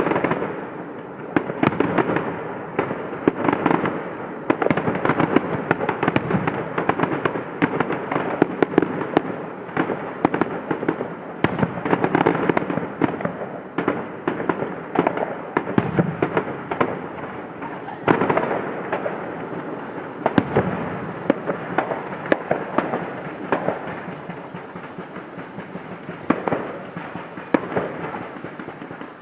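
Fireworks display: a dense, continuous barrage of rapid bangs and crackling, with louder single bangs now and then.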